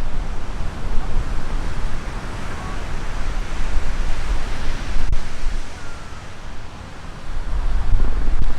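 Seaside wind buffeting the microphone over a steady wash of surf. The gusts swell and fade, easing off for a moment about two-thirds of the way through.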